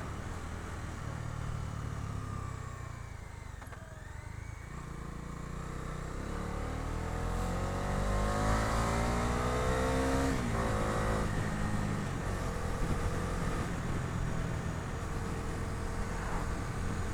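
Bajaj Dominar 250's single-cylinder engine heard from the pillion seat while riding: the engine note rises steadily for about five seconds under acceleration, drops suddenly about ten seconds in at a gear change, then settles to a steady cruise.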